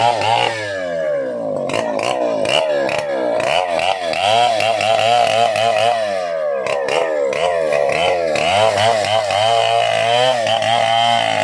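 Stihl 070 two-stroke chainsaw running loud, its engine speed rising and falling again and again as the throttle is worked, with a brief drop about six and a half seconds in.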